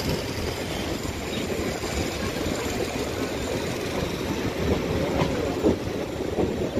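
Train running along the track, heard from on board: a steady low rumble of wheels on rails.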